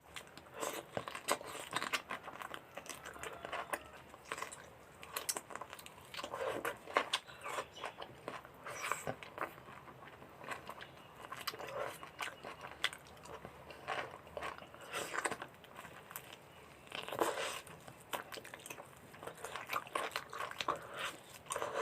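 Close-miked chewing, with wet smacking and irregular clicky crunches, from a person eating mutton curry with rice by hand.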